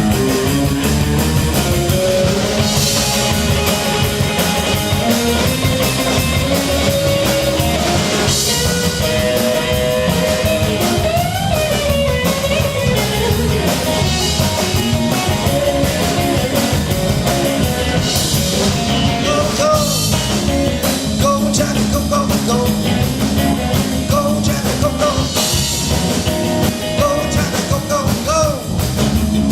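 A rock band playing live, electric guitar over a drum kit, with lead notes that bend in pitch partway through.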